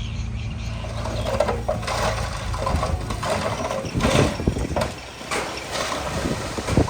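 Heavy-equipment diesel engine running steadily at low revs, with irregular clatter over it several times.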